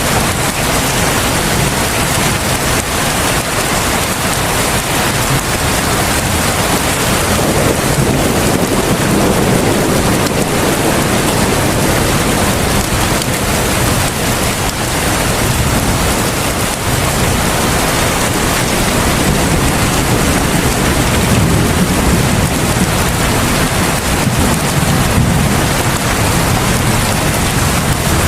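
Heavy rain falling steadily, a dense even hiss. A deeper low rumble swells up twice, about eight seconds in and again about twenty seconds in.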